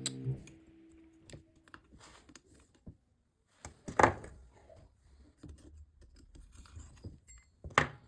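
Small metal parts and tools clinking and knocking while being handled. There are two louder knocks, one about halfway through and one near the end.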